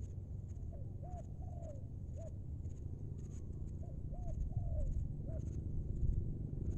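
Spotted dove cooing: a series of short, arched coo notes in small groups over a low background rumble.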